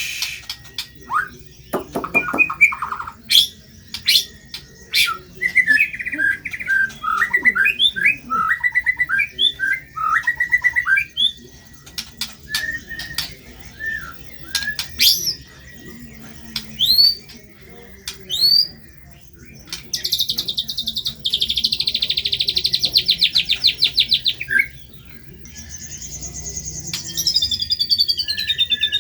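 White-rumped shama singing a varied, loud song of sharp clicks and quick whistled notes. About two-thirds through comes a fast, buzzy trill lasting about four seconds, followed by rising whistles.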